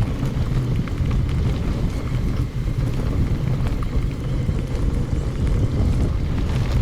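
Heavy wind rumble on the microphone and the rattle of a mountain bike riding over a gravel forest road, with scattered small clicks and knocks, sped up to double speed.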